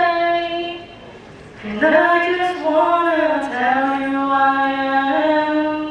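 A woman singing a slow solo melody with long held notes. She breaks off about a second in, then comes back with another long phrase.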